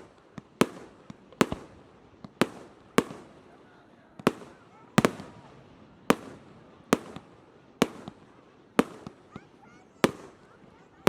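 Fireworks shells bursting overhead in a steady string of sharp bangs, about one a second, each trailing off in an echo.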